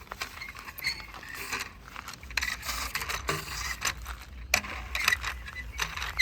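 Toy police microbus being run along by hand, its plastic wheels and mechanism clicking and rattling irregularly.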